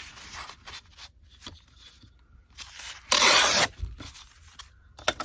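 Painted paper being handled and torn by hand: soft rustling, then one loud tear lasting about half a second a little after three seconds in, as the white edge is torn off the sheet.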